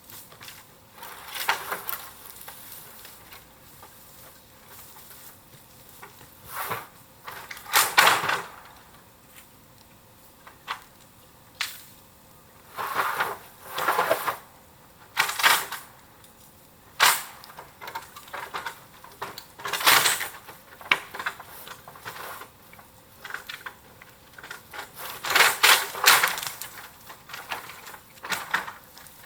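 Bamboo bonfire crackling, with irregular sharp cracks and clatters of burning and shifting bamboo, some in quick clusters, over a low hiss of the fire.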